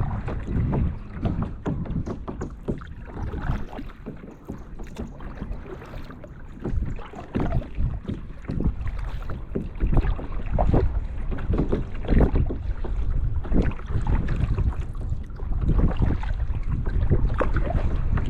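Wind buffeting the microphone in uneven low rumbling gusts, with water splashing and lapping around a kayak on a canal.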